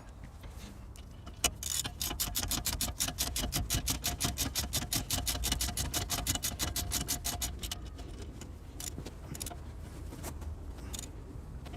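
Ratchet wrench clicking rapidly and evenly, about six clicks a second for some six seconds, as the 17 mm nut is run onto the ball stud of a new tie rod end; a few scattered metal clicks follow near the end.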